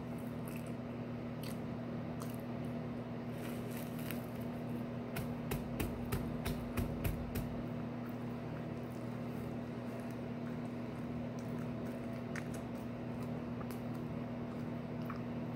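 A person chewing a bread-roll sandwich close to the microphone: wet mouth clicks and smacks, busiest between about four and eight seconds in. A steady low hum runs underneath.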